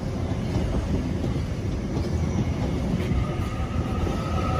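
NSW TrainLink New Intercity Fleet (D set) electric train passing through the station, a steady low rumble of wheels and carriages. A high steady tone joins in about three seconds in.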